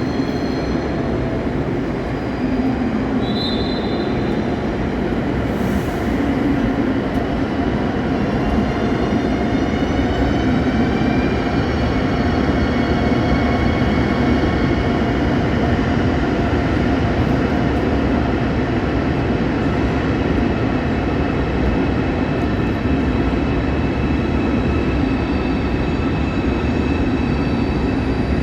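A train moving along the station tracks: a steady, loud rumble of wheels and running gear, with faint high whining tones that slowly rise in pitch.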